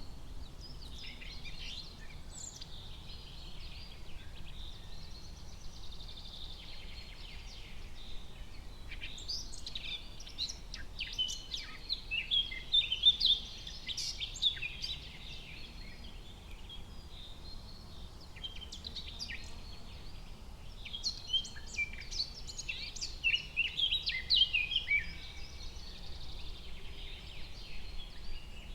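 Forest birdsong: several birds chirping and trilling over a faint steady background hiss, with two busier, louder flurries of calls, one near the middle and one later on.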